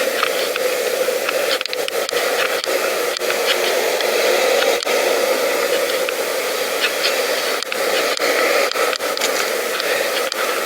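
Steady rushing noise of wind and rolling on the microphone of a camera riding along on a moving pedal bike, broken several times by brief dropouts.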